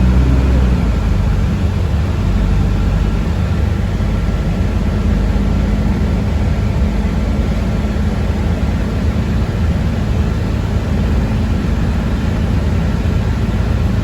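Steady running noise inside a moving city bus: a low rumble with road hiss and a faint, steady high whine.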